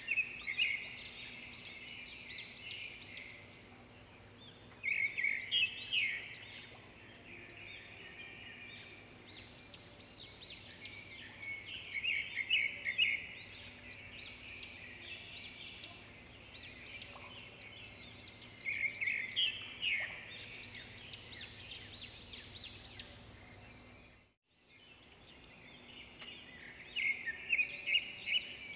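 Small birds singing outdoors: bouts of quick chirping notes every several seconds, over a faint steady hum. The sound drops out briefly about 24 seconds in.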